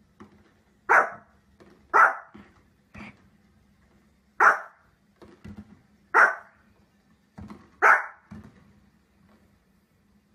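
Small fluffy dog barking: five loud, sharp single barks, about one to two seconds apart, with fainter short sounds in between.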